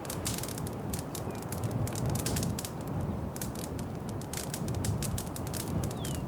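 Wood fire crackling in a fireplace: frequent irregular pops and snaps over a steady low rumble of the burning logs.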